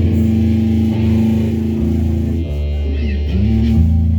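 Live band playing amplified guitar and bass guitar in long held chords, with one short pitch bend about three seconds in.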